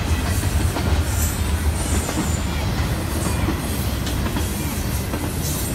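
CSX intermodal container train rolling past at close range: a steady rumble of steel wheels on rail, broken now and then by brief high-pitched wheel squeals.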